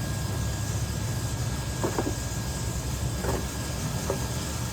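Steady low rumble of running machinery or a vehicle, with a few brief faint vocal sounds over it.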